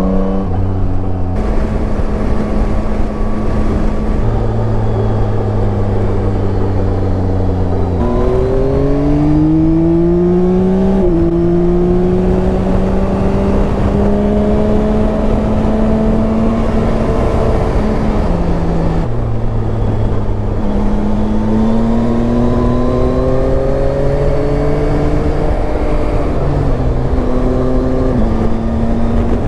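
Yamaha Tracer 9's three-cylinder engine pulling under way. Its pitch climbs and then drops in sudden steps several times as gears are changed, over steady wind and road noise.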